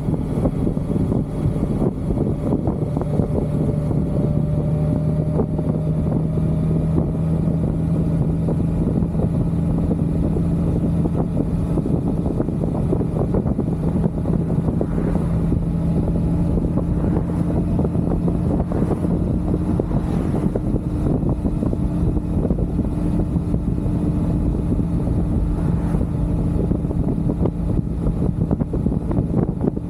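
Motorcycle engine running at a steady cruise, with wind and road noise.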